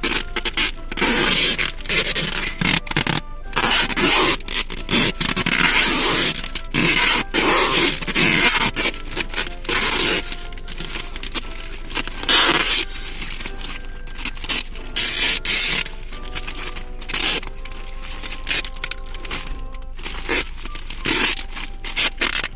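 Gift-wrapping paper crinkling and being torn by hand in many short, irregular bursts, over steady background music.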